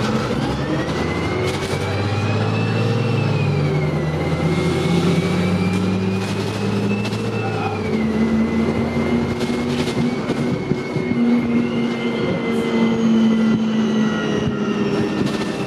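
Dennis Dart single-deck bus pulling away and accelerating, its engine note and a high transmission whine rising, then dropping at gear changes about four and eight seconds in, and climbing again near the end.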